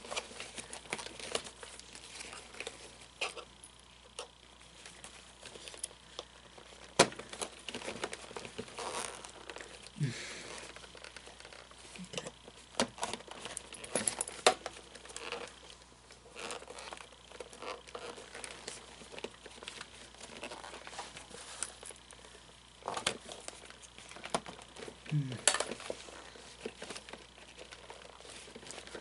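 Hand-handled fabric and glued foam padding being pulled and pried apart: scattered crinkling and light tearing with irregular small clicks and knocks.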